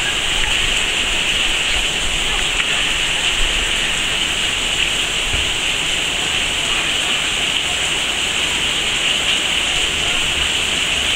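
Heavy rain falling in a rainstorm, a steady dense hiss of downpour that holds even throughout.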